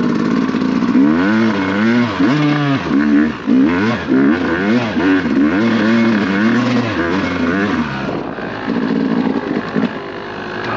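Dirt bike engine revving up and down over and over, the pitch rising and falling every second or so as the throttle is worked, then settling to a steadier, lower running near the end.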